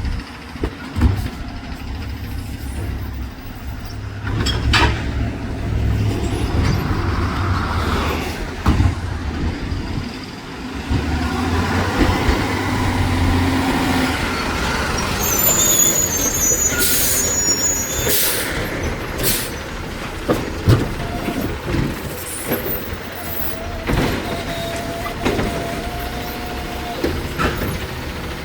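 Garbage truck at work: its diesel engine running with a low rumble, punctuated by sharp metallic bangs and clanks. There is a high squeal about halfway through and a steady whine in the second half.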